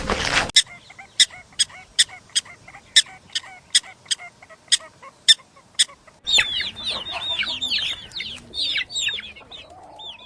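Chickens: a run of short sharp calls or taps about two a second, then after a cut, a dense chorus of high falling peeps from chicks with low clucks beneath.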